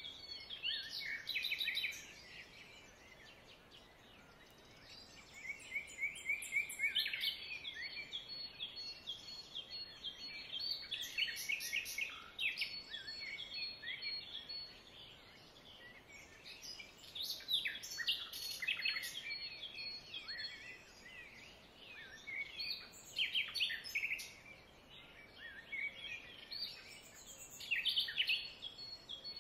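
Small birds chirping and twittering in bursts of quick high chirps, with short lulls between.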